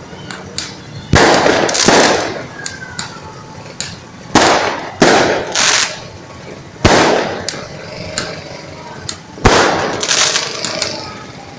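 Fireworks going off: about half a dozen loud bangs, one every second or two, each trailing off in crackle, with smaller pops between.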